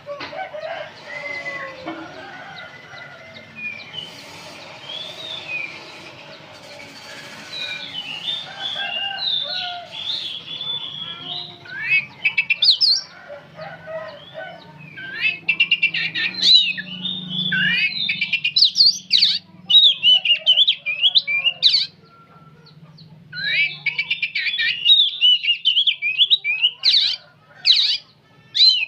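Oriental magpie-robin singing on and on in fast, varied whistled and chattering phrases, with a short break about two-thirds of the way through.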